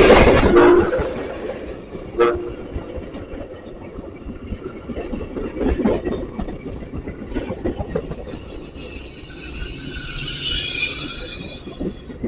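Train horn sounding a chord that cuts off about a second in, then a train rolling past with a steady rumble and wheels clicking over rail joints. Near the end a faint high squeal of wheels on the rail comes in.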